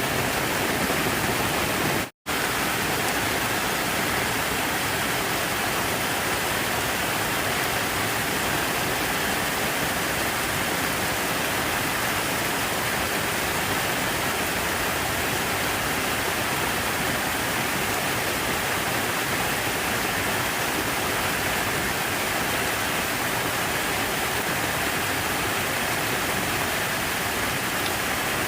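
Steady rushing of falling water, an even unbroken wash of sound. It cuts out completely for an instant about two seconds in, then resumes unchanged.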